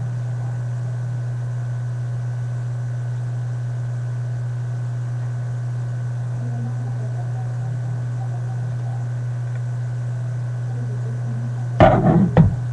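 Steady low electrical hum, with a short loud burst of sound near the end.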